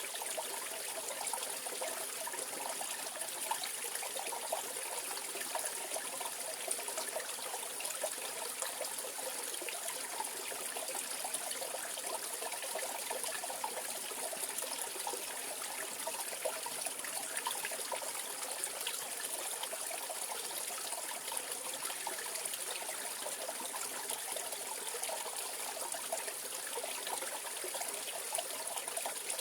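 Mountain valley stream flowing steadily, a continuous rush of water with a dense bubbling trickle and no breaks.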